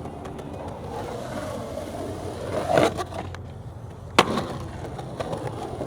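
Skateboard wheels rolling on concrete. A short scrape swells up a little past two and a half seconds in, and a sharp smack of the board hitting the ground comes about four seconds in, after which the rolling goes on.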